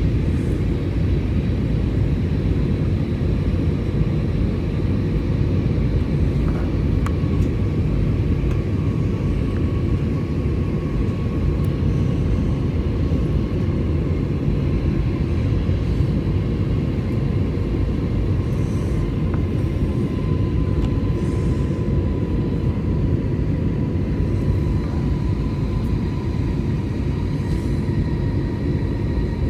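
Steady cabin rumble of an Airbus A320-200 in flight, with the engines' whining tones slowly falling in pitch.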